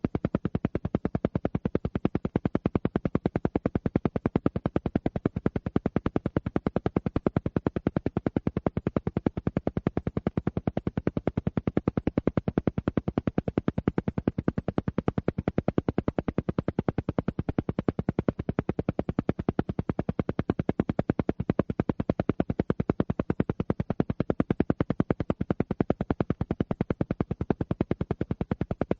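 Alpha-wave brainwave-entrainment track: a steady train of rapid, even pulses at about ten a second, the alpha-rate pulsing meant to relax the mind.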